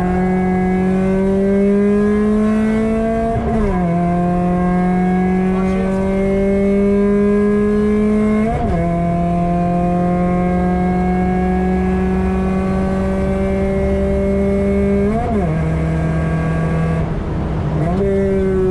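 Ford 1.7 Puma four-cylinder engine, breathing through a 4-2-1 manifold and decat exhaust, heard from inside the cabin while pulling hard at high revs. The pitch climbs slowly and drops sharply at three quick upshifts, about 3.5, 8.5 and 15 seconds in.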